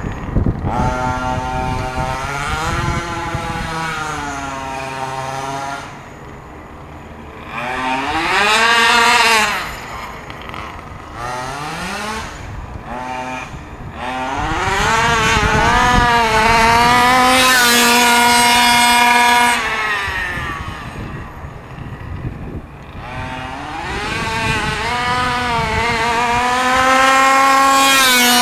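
Two-stroke petrol engine of a 1/5-scale HPI Baja 5B RC buggy at full throttle, the revs climbing to a high pitch, holding and then dropping again. This happens several times: three loud high-rev peaks with quieter stretches between.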